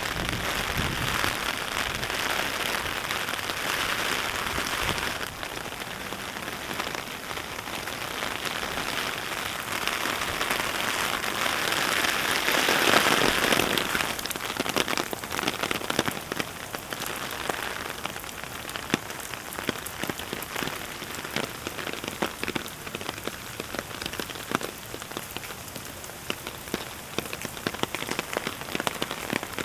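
Steady rain falling, with many individual drops ticking close by. It swells louder for a few seconds about halfway through, then eases into lighter, more distinct drops.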